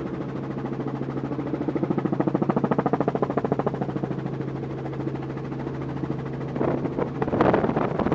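Helicopter in flight heard from inside the cabin: a rapid, even rotor beat over a steady engine hum, with louder rough noise coming in near the end.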